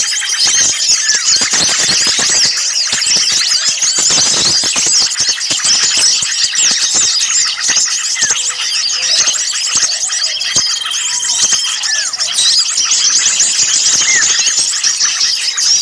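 A dense, noisy chorus of many small songbirds chattering and chirping rapidly without a break, high-pitched, with a few brief held whistles: agitated small-bird calls mixed for use as a bird lure.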